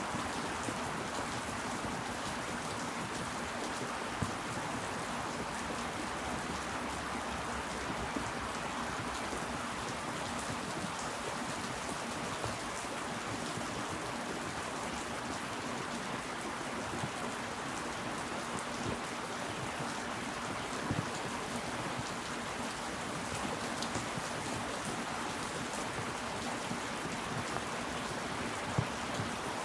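Steady rain falling, a dense even patter, with now and then a single louder drop close by.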